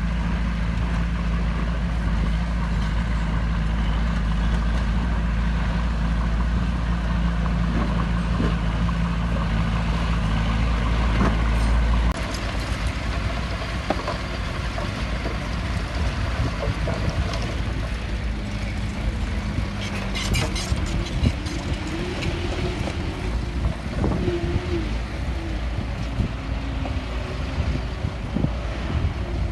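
Heavy earthmoving machinery with its diesel engine running steadily, the sound changing abruptly about twelve seconds in, after which clanks and knocks come through over the engine.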